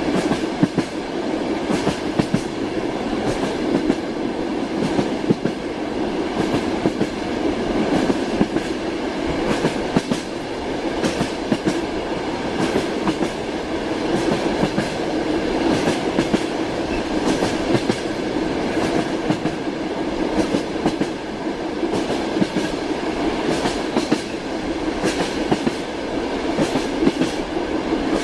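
Train wheels knocking over rail joints: a steady rumble of a moving railway carriage with repeated clickety-clack knocks, often in close pairs.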